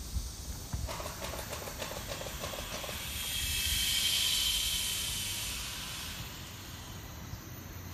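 A hiss that swells about three seconds in and fades away after a couple of seconds, over a steady background rumble, with a few clicks near the start.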